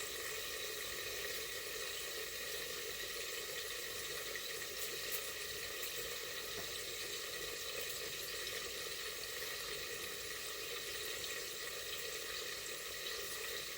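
Seasoned chicken frying in a pot with a steady sizzle.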